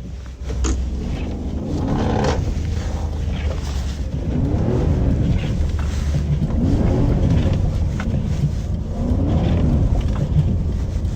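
The 5.7-litre Hemi V8 of a 2009 Jeep Commander runs under way with a deep steady rumble. Its pitch rises and falls several times, about every two seconds, as the throttle is worked.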